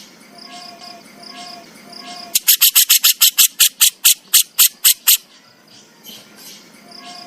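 Grey-cheeked bulbul (burung jenggot) giving its harsh rasping 'besetan' call: a rapid run of about a dozen sharp strokes, roughly five a second, starting a couple of seconds in and stopping about five seconds in. Faint short whistled notes come before and after it.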